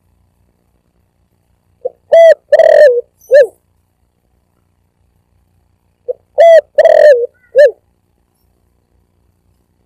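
Spotted dove (tekukur) cooing from a lure-call recording, heard twice about four seconds apart. Each phrase is a short faint note, two longer wavering coos and a clipped final note, with silence between the phrases.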